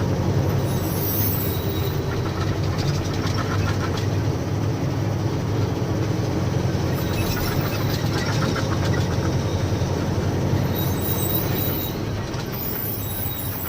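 Diesel engine and road noise of a loaded lorry heard from inside the cab while driving, a steady low rumble with some rattling midway. It gets a little quieter near the end as the truck slows.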